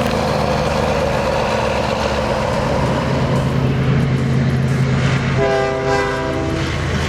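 Heavy diesel engine running steadily, with a multi-note air horn sounding once for about a second, about five seconds in.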